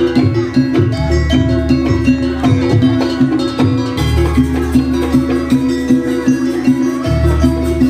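Live traditional Banyuwangi jaranan ensemble music, with fast, even percussive strikes over steady pitched notes. A deep low note sounds about four seconds in and again near the end.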